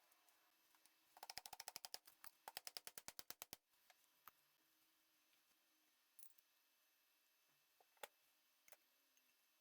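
A rapid run of sharp clicks, about ten a second, in two short bursts, followed by a few isolated clicks and taps over faint room tone.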